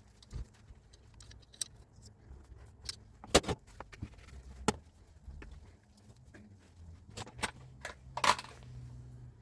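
Irregular metallic clicks, clinks and knocks of metal tool parts being handled, the loudest about three and a half seconds in and again a little past eight seconds. A low steady hum sits underneath.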